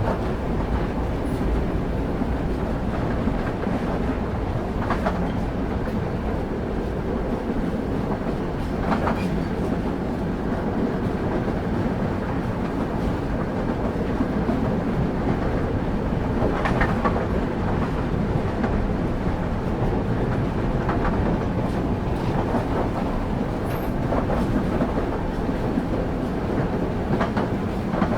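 Moving passenger train heard from on board: a steady rumble of the wheels on the rails, with a sharp clack every few seconds as the wheels cross rail joints.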